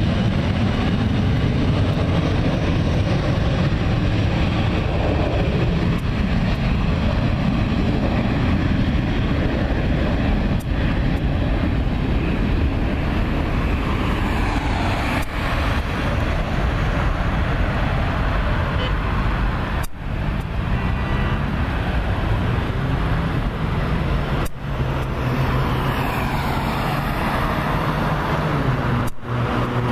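Loud, steady rumble of engines and traffic noise, with a few brief dropouts and engine tones gliding in pitch about two-thirds of the way in and again near the end.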